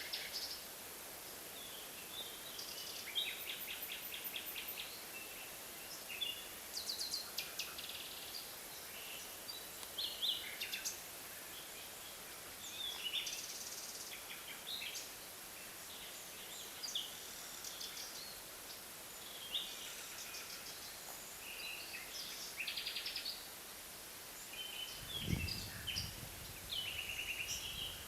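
Several birds singing and calling in a forest, short chirps and trills overlapping one another, over a steady faint hiss. Near the end, a short low rumble.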